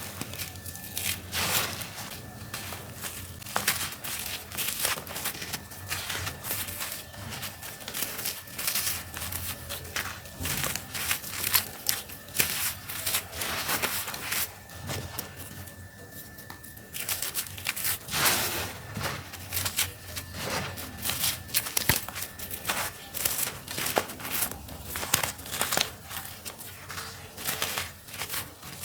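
Dry, earthy dirt being crumbled, with dense, irregular crunching and crackling throughout and a quieter lull about halfway through.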